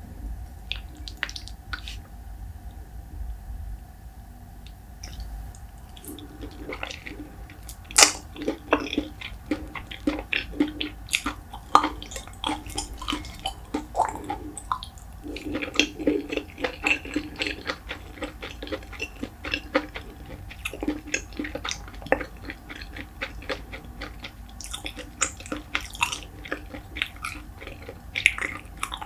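Close-miked chewing of white rice and salted pollock roe: wet, sticky mouth clicks and smacks, sparse at first and dense from about six seconds in.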